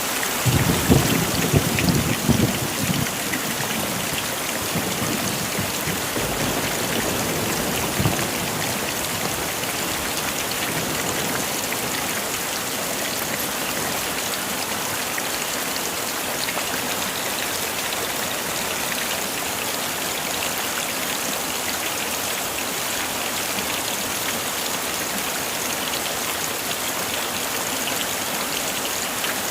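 Heavy rain pouring steadily. A low rumble of thunder comes in the first few seconds, and a brief one about eight seconds in.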